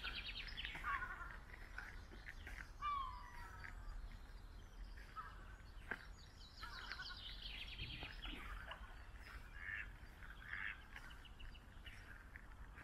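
Outdoor birdsong: several birds singing and calling in short, repeated phrases, with fast trills and downward-sliding notes every few seconds, over a steady low rumble.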